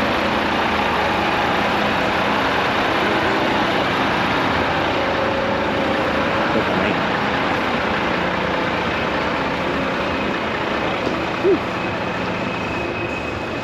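Heavy trucks' diesel engines running steadily, with a short high squeak about eleven and a half seconds in.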